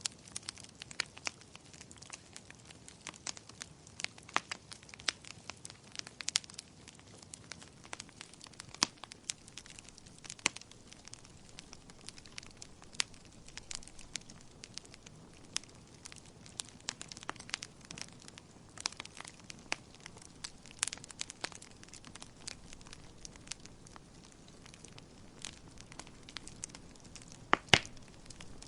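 Wood fire crackling in a fireplace: irregular sharp snaps and pops over a soft steady hiss, with one louder pop near the end.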